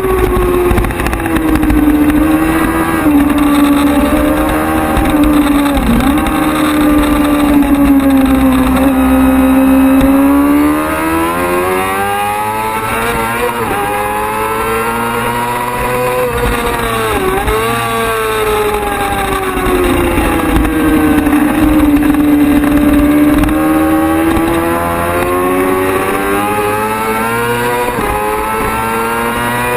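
Racing motorcycle engine running hard at high revs. It is loud and steady at first, falls in pitch and level about a third of the way through as the bike comes off the throttle, then climbs again, with brief sharp pitch dips at gear changes.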